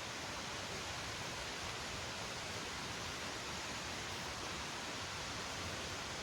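Steady, even rushing noise with no rhythm or distinct events, briefly cut out at the start.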